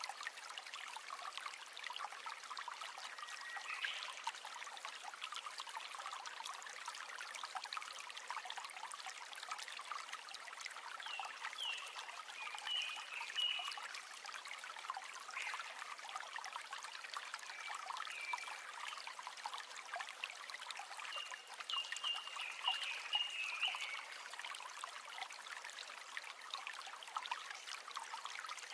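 River water trickling and babbling steadily, a fine crackle of small splashes. A few short high chirps from a small animal come through about halfway and again about three-quarters of the way in.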